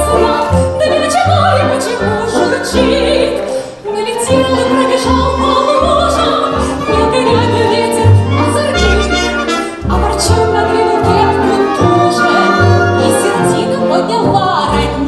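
Operatic-style singing with instrumental accompaniment: a held, bending melodic vocal line over a steady pulse of bass notes.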